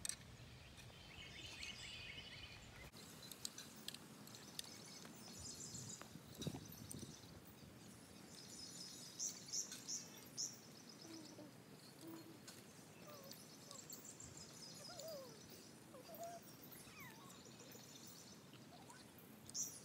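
Faint songbirds chirping in short bursts against a quiet outdoor background.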